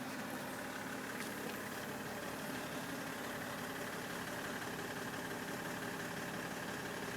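BMW 530d E60's 3.0-litre straight-six turbodiesel idling steadily.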